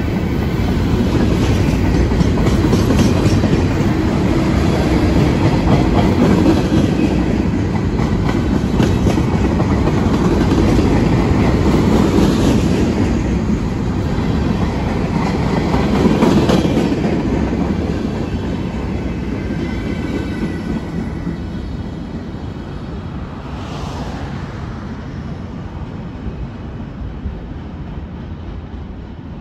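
Loaded freight train's covered hopper cars rolling past close by, a heavy rumble with the steel wheels clacking on the rails. The sound fades over the last ten seconds or so as the end of the train draws away.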